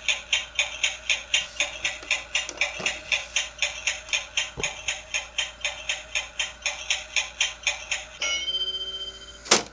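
Toy toaster's timer ticking steadily, about four ticks a second, while the toast toasts. Near the end it gives a ringing ding, then a sharp click as the toast pops up.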